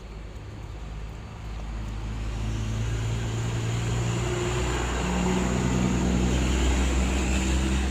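A low, steady engine hum, like a motor vehicle running close by, that grows louder from about a second and a half in and then holds.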